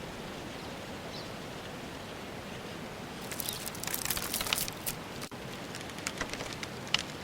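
Steady outdoor ambience hiss, with a run of sharp crackling clicks from about three seconds in. The clicks thin out toward the end, with one louder snap near the end.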